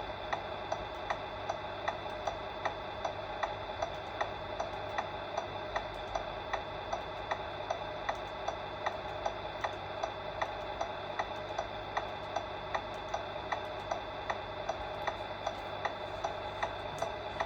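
Even, regular ticking, about two ticks a second, over a steady hum.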